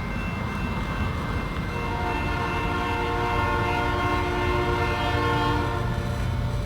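Diesel locomotive air horn on an Illinois Central EMD SD70, sounding one long chord of several tones that cuts off near the end, over the low rumble of the approaching train.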